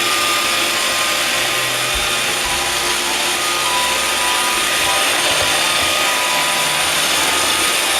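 iRobot Roomba 560 robot vacuum running on a straight run across the floor: its vacuum fan and brush motors whir steadily, with a few faint whining tones over the noise.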